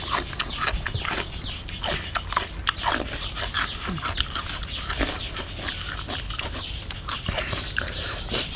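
Close-up wet chewing and lip-smacking as fermented beef (som wua) is eaten: a run of quick mouth clicks and smacks.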